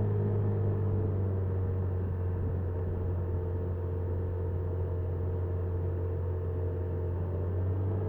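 Honda Super Cub 50's small single-cylinder four-stroke engine running at a steady pitch while riding, picked up by the bike's dashcam.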